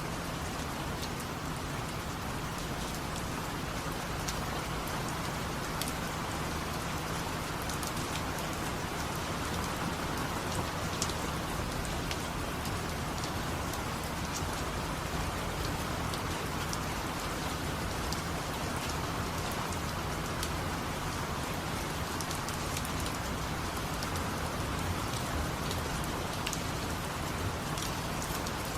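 Steady rain falling, with scattered individual drops ticking sharply over the even hiss.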